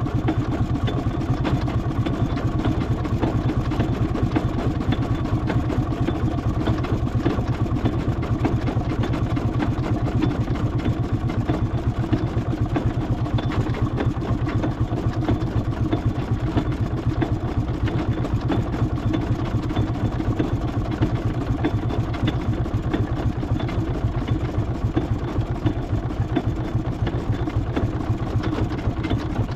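An engine running steadily with a fast, even beat that holds unchanged throughout.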